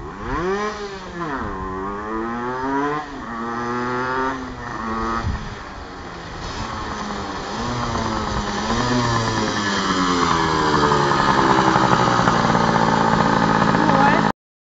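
Honda NSR 125 two-stroke single-cylinder engine of a homemade shifter go-kart revving hard. Its pitch climbs and falls repeatedly as it accelerates and backs off, then climbs steadily and louder toward the end before cutting off suddenly.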